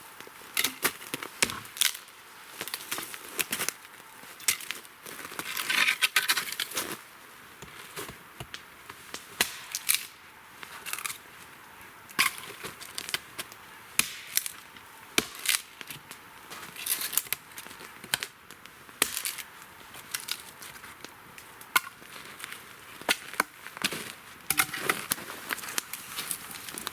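Wood campfire crackling, with irregular sharp pops and snaps and a denser run of crackle about six seconds in.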